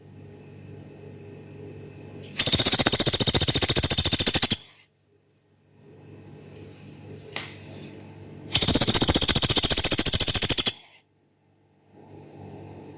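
Pelatuk beras, a small woodpecker, giving two long, rough, rapid rattling trills of about two seconds each, with a faint low hum between them.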